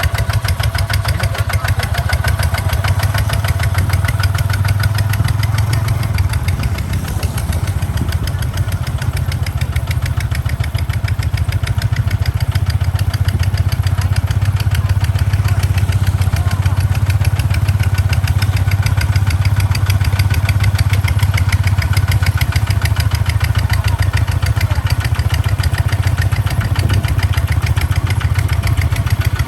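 Kubota tractor's diesel engine running steadily under load, a deep rapid chugging, slightly louder in the second half.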